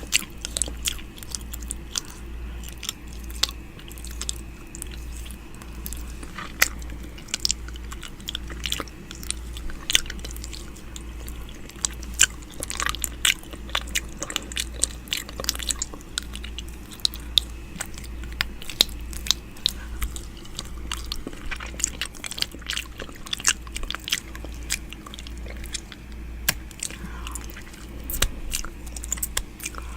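ASMR 'ear eating' mouth sounds made close to the microphone: irregular wet clicks, smacks and nibbling sounds, several a second, over a steady low hum.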